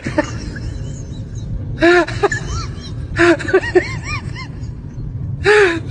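Siberian husky vocalizing in short bursts of rising-and-falling whines and yips, a few quick calls each, coming every second or two.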